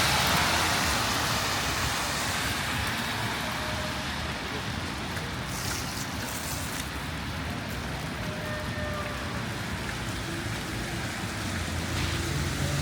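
City traffic on a wet road: a vehicle's tyres hiss past at the start and fade away, over a steady low rumble of traffic.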